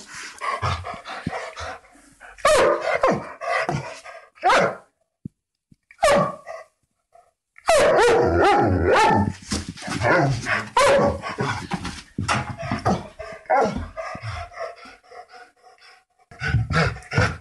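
Dogs barking repeatedly in quick runs of sharp barks, with a break of about two seconds midway.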